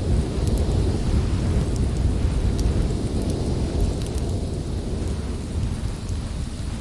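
Storm wind blowing as a deep, steady rush, with a few faint, sharp crackles of a wood fire on top.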